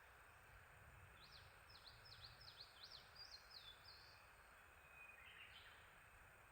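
Faint songbird song over a steady background hiss: a run of about six quick, sweeping high notes, then a short lower phrase near the end.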